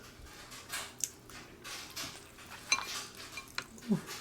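King crab shells and utensils clicking and crackling in several short bursts as crab legs are cracked open and eaten.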